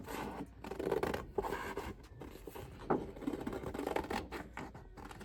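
Scissors cutting through scrapbook paper in a run of irregular snips, with paper rustling as it is turned.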